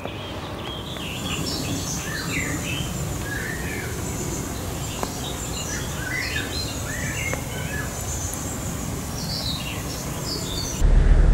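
Several small birds chirping and singing in woodland, many short calls and trills over a steady low background rumble. Near the end a loud low rumble starts abruptly.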